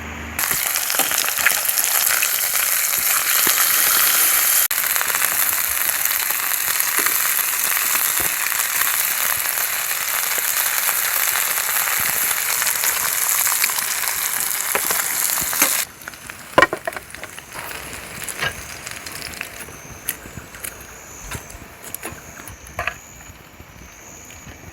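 Thick beef sizzling loudly as it grills over a wood fire, a steady hiss with small spits. About 16 seconds in it cuts off abruptly to a quieter stretch of scattered crackles and pops.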